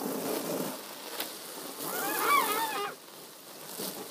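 Garden hose spray splashing on a cardboard box fort, with a child's high-pitched, wavering shriek about two seconds in.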